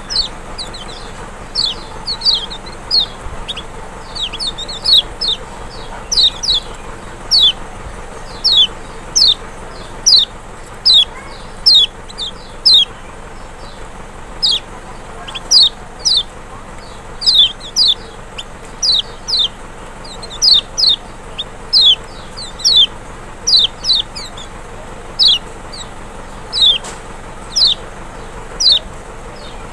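Kecial white-eye (Zosterops chloris maxi) calling: a steady series of short, high, downward-sliding notes, a little over one a second, sometimes two in quick succession, over a constant background hiss.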